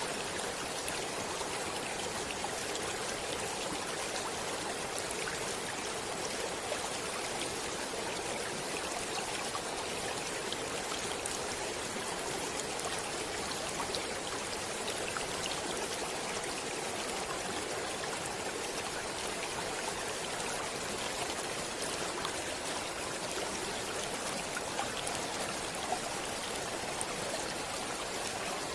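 Flowing water of a stream or river: a steady, even rushing with small splashy ticks scattered throughout.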